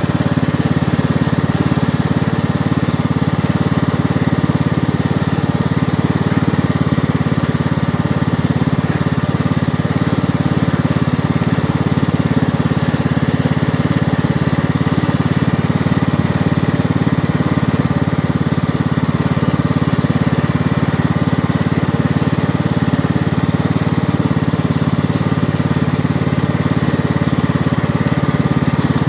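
John Deere lawn tractor's 540 cc, 18 hp engine running steadily as the tractor is driven slowly.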